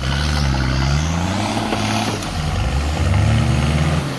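Turbo diesel Nissan Patrol engine revving hard under load while trying to pull a bogged vehicle out of the mud. Its pitch climbs and falls twice, then drops away sharply near the end.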